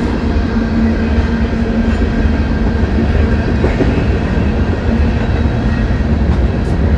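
Train going by on the line at the edge of town: a steady low rumble with a steady engine hum over it.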